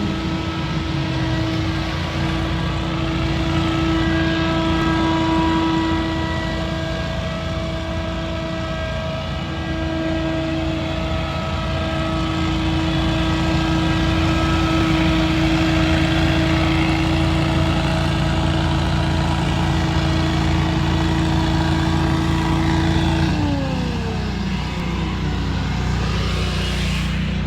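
Scag Windstorm debris blower's engine running steadily with a constant hum. About 23 seconds in, the engine note slides down and settles lower as it is throttled back.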